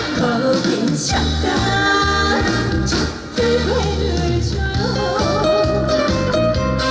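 Trot song performed live: a woman singing with wavering, ornamented notes over an instrumental accompaniment with a steady bass beat, with a brief drop in the music about three seconds in.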